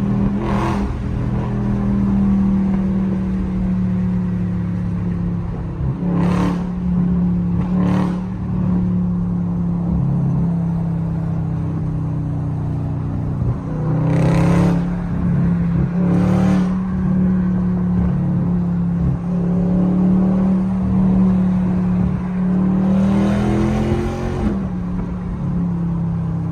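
Dodge Scat Pack's 392 HEMI V8 running through a mid-muffler-delete exhaust while driving: a steady exhaust drone, with several brief louder bursts and a short rise in pitch near the end.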